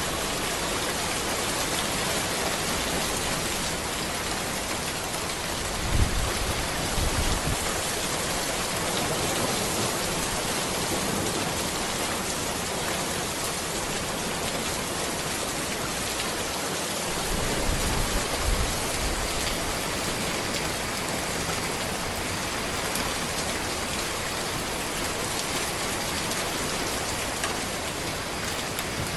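Steady rain falling on a road and trees: an even hiss, broken by two brief low rumbles about six seconds in and again around eighteen seconds in.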